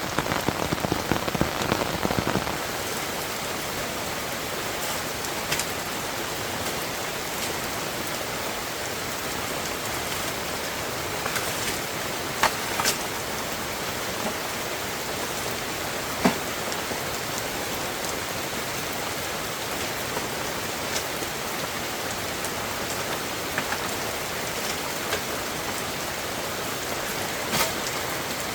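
Rain falling steadily, an even hiss, with a few sharp drops or knocks standing out from it. It is louder and rougher in the first couple of seconds.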